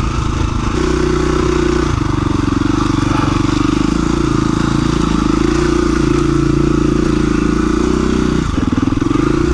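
KTM 350 EXC-F single-cylinder four-stroke engine running at steady low revs while riding a rocky trail, its pitch stepping slightly up and down a few times with the throttle.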